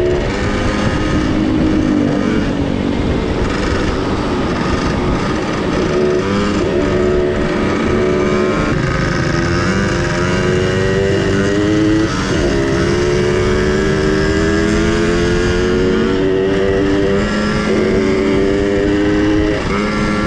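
Small two-stroke minibike engines running under way, their pitch rising and falling with the throttle. At times more than one engine is heard at once.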